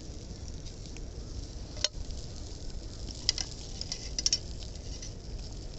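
Food cooking over a campfire: light crackling and sizzling with a few sharp pops, one about two seconds in and two more later, over a low steady rumble.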